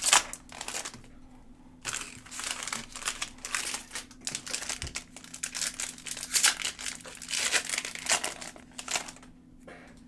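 Plastic trading-card pack wrappers crinkling as packs are opened and cards handled. The crinkling comes in busy stretches, with a short lull about a second in, and dies down near the end.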